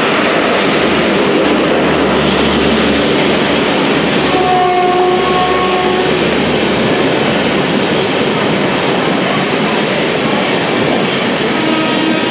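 LHB passenger coaches of an express train passing a station platform at speed, with the steady loud noise of wheels running over the track. About halfway through, a horn sounds for about a second and a half.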